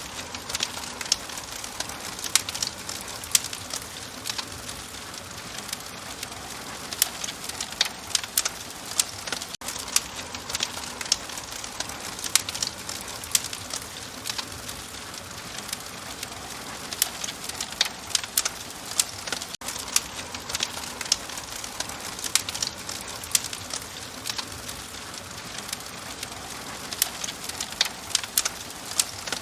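Wood fire crackling in a fireplace: a steady hiss with frequent sharp pops and snaps scattered through it.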